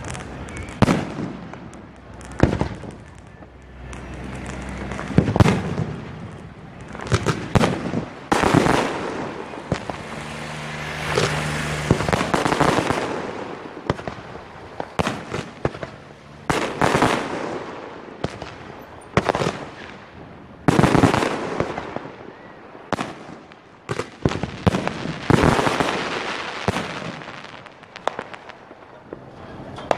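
Aerial fireworks shells bursting one after another: sharp bangs every second or two, with a few longer spells where the bangs run together into continuous noise.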